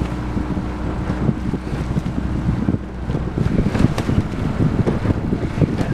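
Wind buffeting the microphone, over a low rumble of water and boat noise. A faint steady hum runs underneath and drops out about halfway through.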